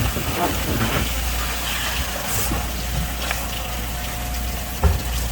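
Steady rush of running water over a constant low machine hum, with a single knock about five seconds in.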